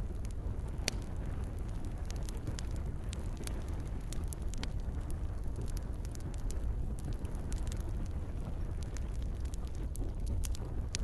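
Campfire crackling: a steady low rush with many small sharp pops and snaps scattered irregularly throughout.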